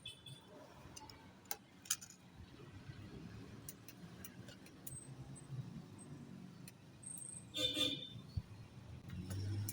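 Scattered faint clicks and taps over a low hum, with one short honk-like toot, like a vehicle horn, about three-quarters of the way through.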